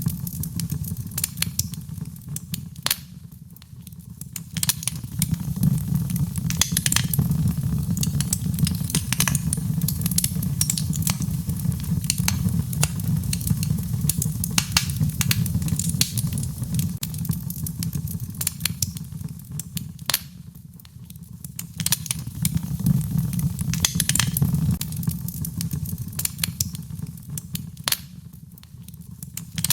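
Wood fire crackling and popping in a fireplace, with irregular sharp snaps over a steady low rumble of the flames. The crackles thin out in a few brief lulls.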